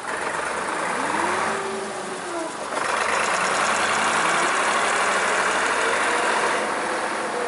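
Band sawmill's gasoline engine running under load while the band blade cuts through a log, a loud rushing hiss in two stretches with a short dip a little before three seconds in. The engine note sags and recovers as the cut loads it.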